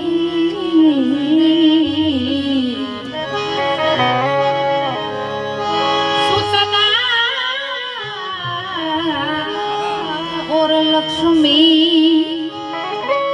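Gujarati santvani bhajan: a singer draws out a long, wavering sung note over instrumental accompaniment with steady held chords and a drum, the melody moving on in the middle.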